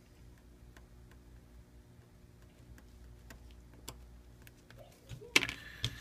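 Light scattered ticks and taps of small tools and parts being handled on a phone's plastic frame, over a low steady hum, with a louder sharp click about five and a half seconds in.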